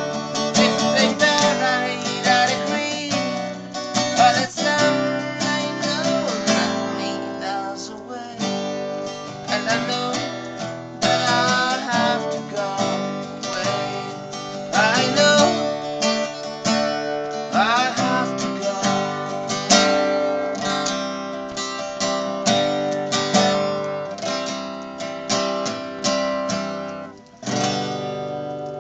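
Acoustic guitar strummed steadily in an instrumental close to a song, with a last chord struck near the end and left to ring out and fade.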